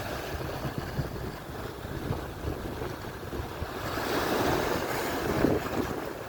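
Atlantic surf: waves breaking and washing up the shore, one wave swelling louder about two-thirds of the way through, with wind buffeting the microphone.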